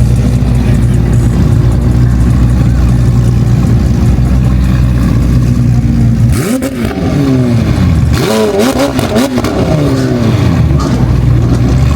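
A car engine idles with a steady deep rumble, then is revved several times from about six seconds in, its pitch rising and falling.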